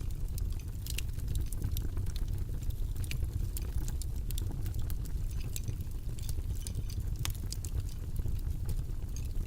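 Steady white-noise track, heavy in the low end, with scattered light clicks and taps over it.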